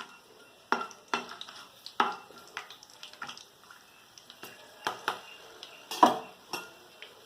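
Spoon stirring whole spices in hot ghee in a metal kadai: irregular clinks and scrapes against the pan, the loudest about six seconds in.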